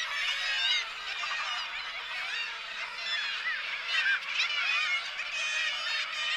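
A large flock of birds calling all at once: many short, overlapping calls forming a continuous din.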